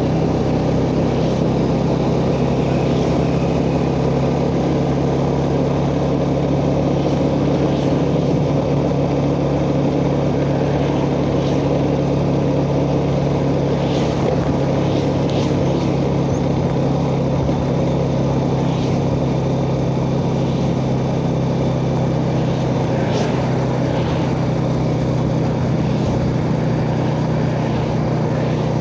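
Yamaha Jupiter Z underbone motorcycle's single-cylinder four-stroke engine running steadily at a cruising pace, picked up by a phone microphone on the rider's chest, with a constant rush of wind and road noise.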